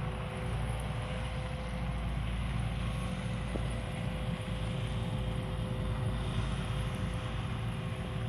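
Steady low rumble with a thin steady hum over it, as of a running vehicle.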